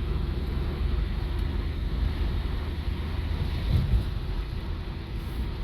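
Steady low road rumble and wind noise of a car driving, heard from inside the vehicle, with a single low thump about four seconds in.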